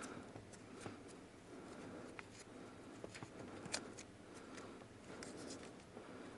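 Faint rustling and scattered small clicks of hands working on car wiring, splicing and taping wires, with one sharper click a little past the middle.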